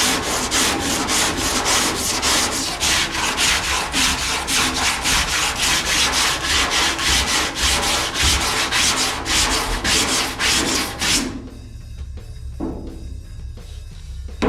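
Coarse 40-grit sandpaper being pushed back and forth by hand over body filler on a car door, a steady rasping stroke about three times a second. The strokes stop abruptly about 11 seconds in.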